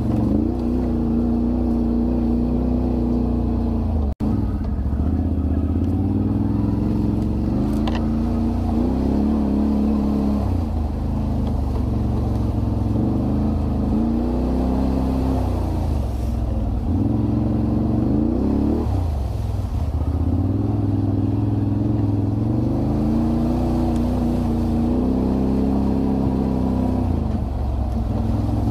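Can-Am Renegade 1000 ATV's V-twin engine running under load, its pitch rising and falling again and again as the throttle is opened and eased. The sound cuts out for an instant about four seconds in.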